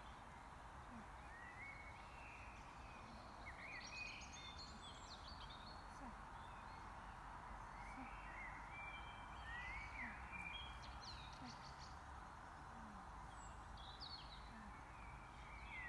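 Small birds singing faintly, short chirping phrases every few seconds, over a steady outdoor hiss.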